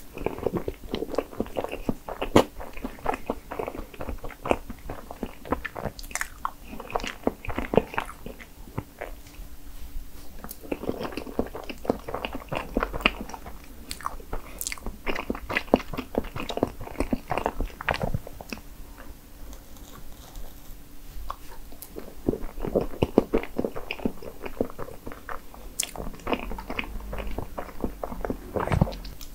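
Person eating strawberry crepe cake: soft, wet chewing and mouth clicks in bouts, with a short lull about two-thirds of the way through.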